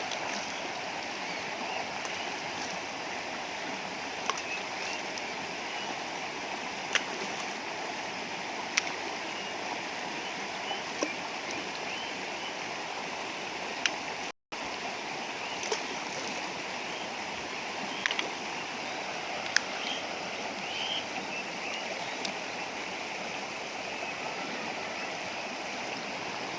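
A river flowing steadily, with a handful of short, sharp knocks or splashes scattered through it. The sound drops out for a moment about halfway.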